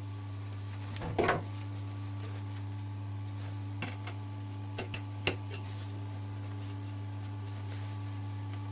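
A few light clinks and knocks of small hard objects being handled, the loudest about a second in, over a steady low hum.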